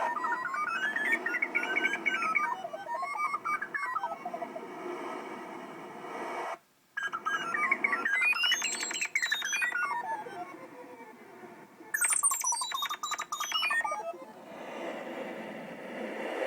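General MIDI bird-tweet and wind voices from the Simple Synth software synthesizer, driven by EEG brainwave data: fast runs of chirp-like notes sweep up and down in pitch over a wind-like hiss. The sound drops out briefly about six and a half seconds in.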